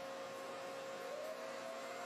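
A steady hum over a hiss, with a second tone that slides up slightly about halfway through.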